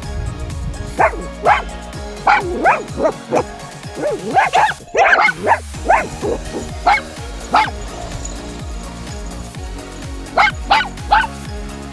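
A dog barking in a string of short, high yaps, about a dozen, most of them bunched near the middle, over steady background music.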